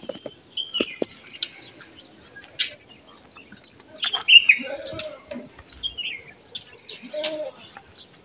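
Birds chirping in short, downward-sliding chirps, with two brief lower calls in the second half and a few sharp clicks.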